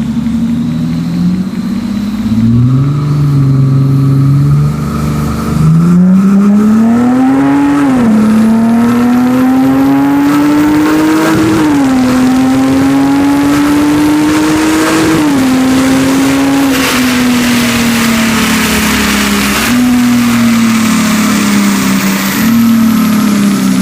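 Lexus IS300's 2JZ-GE inline-six accelerating hard, its revs climbing and then dropping sharply at three automatic upshifts, about 8, 12 and 15 seconds in. After the last shift the revs fall slowly as the car eases off.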